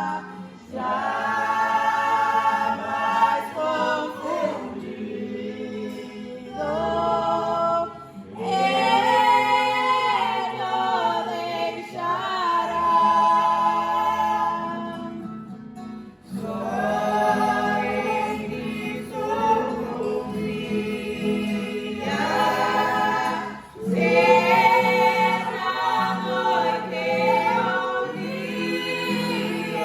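Several voices singing a Portuguese Christian hymn together in long phrases with short breaths between them, accompanied by acoustic guitar.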